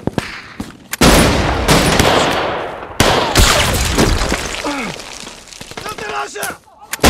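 Rapid volleys of automatic rifle fire in a gunfight, with heavy bursts starting about a second in and again about three seconds in, and men's voices shouting and groaning among the shots.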